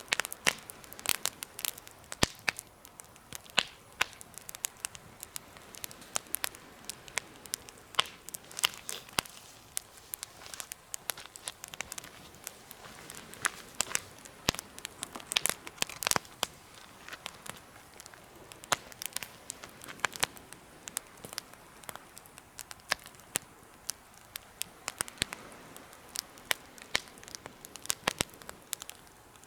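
Wood fire burning in a DIY fire stand, crackling and popping with many sharp irregular snaps over a faint steady hiss.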